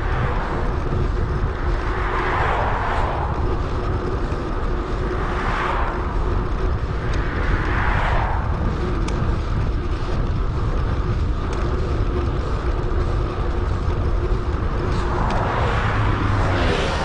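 Wind rumbling on a helmet- or bike-mounted action camera's microphone during a bicycle ride, sped up, with a swell of passing traffic noise every couple of seconds.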